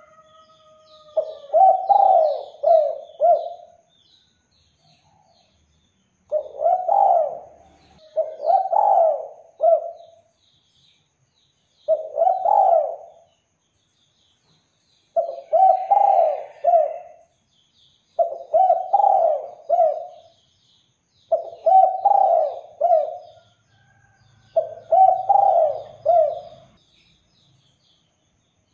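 Spotted dove (derkuku) cooing: eight multi-note coo phrases, each lasting a second or two and repeated every few seconds. Faint chirps of small songbirds sound behind it.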